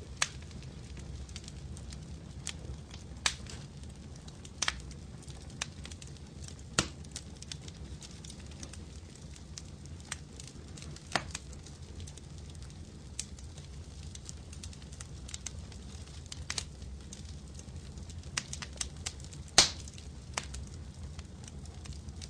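Wood fire crackling: a low steady rumble of flames with scattered sharp pops every second or two, one louder pop near the end.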